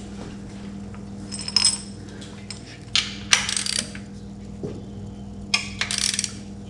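Metal scraper scraping old gasket material off a metal engine part, in three short bouts of scratchy strokes, about a second and a half, three seconds and five and a half seconds in.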